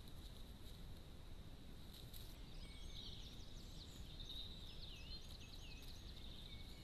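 A songbird singing about two and a half seconds in: quick trills and short whistled glides in a run of phrases. Under it is a faint steady hiss and a thin, steady high tone.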